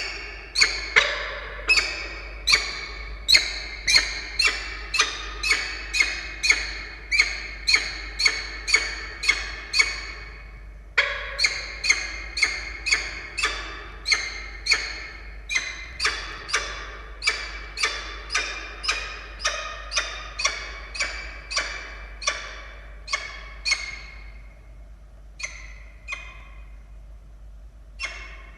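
Peregrine falcon calling in a long series of sharp, quickly fading calls, about two a second. There is a short break about ten seconds in, and the calls come more sparsely near the end.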